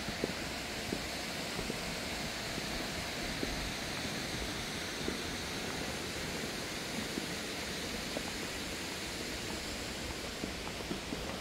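Spring-fed waterfall rushing: a steady, even hiss of falling water, with faint scattered ticks under it.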